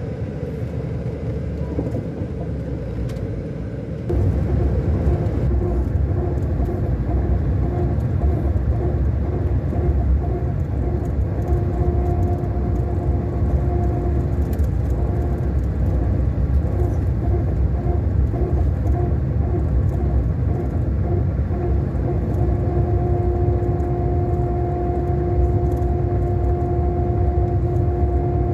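Scania K400 Euro 5 bus engine running under way: a steady low rumble with a steady whining tone over it. The rumble gets louder about four seconds in, and the whine comes and goes through the middle before holding steady near the end.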